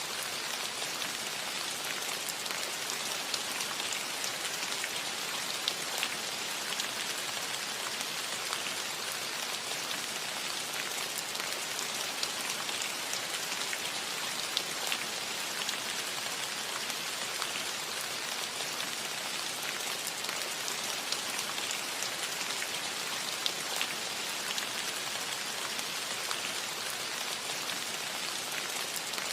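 Gentle rain falling steadily on a metal roof: an even hiss of many drops, with scattered single drop strikes ticking out above it.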